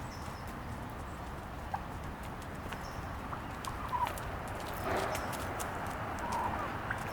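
A few short bird calls over a steady low outdoor rumble, with scattered light clicks.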